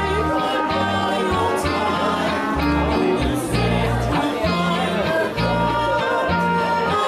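Oberkrainer-style polka played live by a band, with a bass line alternating between notes in a steady oom-pah rhythm under sustained melody instruments.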